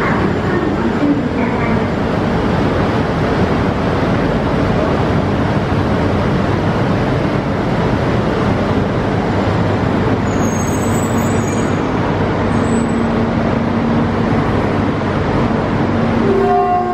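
Steady, even running noise of a Yamagata Shinkansen train standing at the platform with its coupler nose opened for coupling. Near the end a short steady tone sounds over it.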